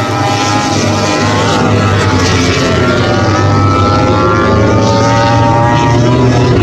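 MotoGP race motorcycle engines running at high revs, their pitch rising slowly and falling back as the bikes accelerate and brake.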